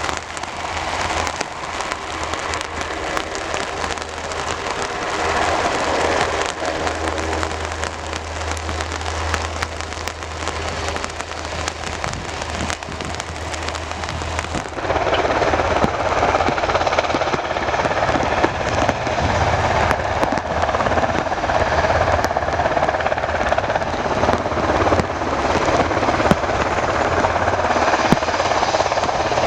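Rain falling, its drops crackling close to the microphone, over the steady low drone of a UH-60 Black Hawk helicopter running. About halfway in the sound changes abruptly and grows louder.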